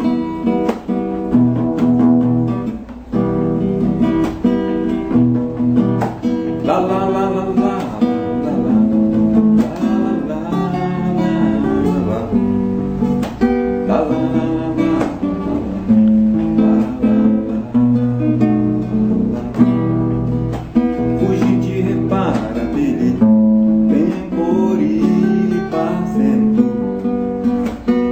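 Acoustic guitar playing continuously, with chords and melody notes plucked and strummed.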